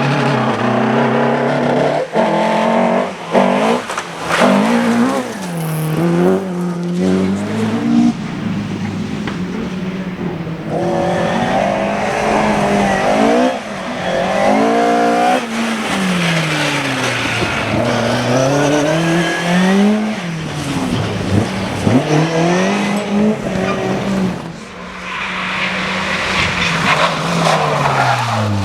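Rally cars at speed on a special stage. Their engines rev hard, and the pitch climbs and drops again and again with gear changes and lifts, over tyre and skidding noise.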